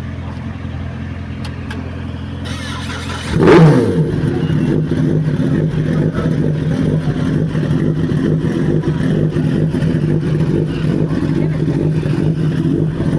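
A Kawasaki ZX-10RR's inline-four fires up about three seconds in, its revs flaring up and dropping back, then it settles into a steady idle. Before it catches there is a steady low hum. It starts now that its battery has been charged.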